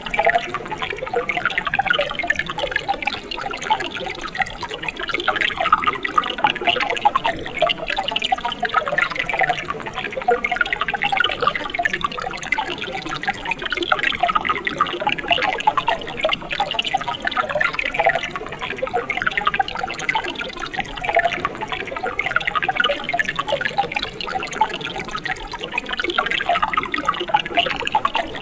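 A mountain stream running and splashing over rocks, steady and unbroken, full of small bubbling and splashing sounds.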